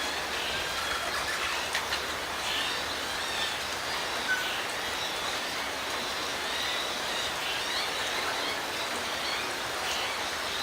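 Steady rain falling, an even hiss, with a few sharp ticks of drops and faint bird chirps behind it.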